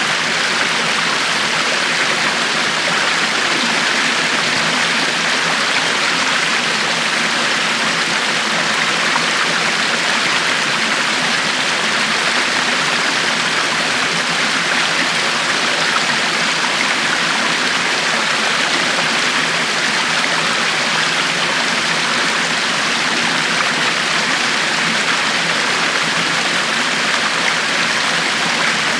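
River water flowing and rushing over rocks, a steady even rush with no change.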